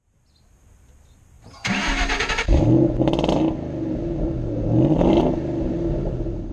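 Car engine being started: about a second of the starter cranking, then the engine catches with a rising pitch and is revved up a second time.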